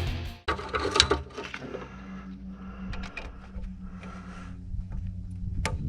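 Metal clicks, knocks and scraping as a hydraulic quick-connect coupler on a compact-tractor backhoe line is worked by hand. The coupler resists, which the owner puts down to pressure built up in the line when the backhoe was dropped. A sharp click comes near the end.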